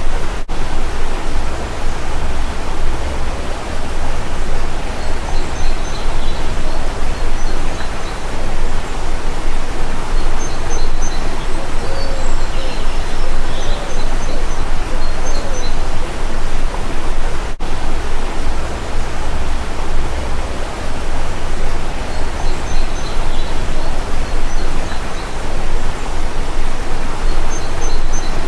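Steady rushing water of a stream, with faint bird chirps scattered through it. The sound drops out for an instant twice, about half a second in and about 17 seconds in.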